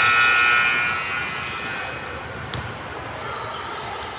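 A gym horn, most likely the scoreboard buzzer, holds one steady tone and fades out about a second in. The hall then goes quieter, with a single basketball bounce about two and a half seconds in.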